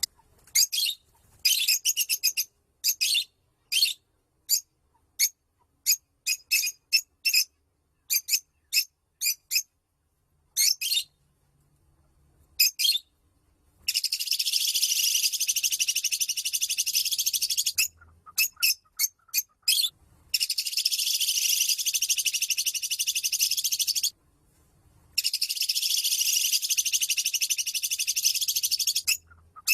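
Lovebird calling: short, sharp high chirps in quick groups, then, from about halfway, three long rapid chattering trills of about four seconds each, the drawn-out 'ngekek' call.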